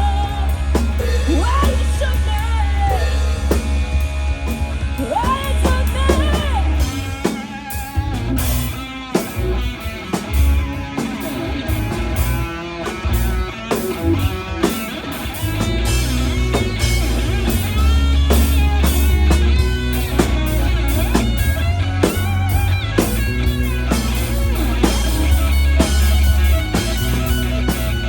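Live rock band playing a song: drum kit, bass and electric guitar, with bending guitar or vocal lines in the first few seconds.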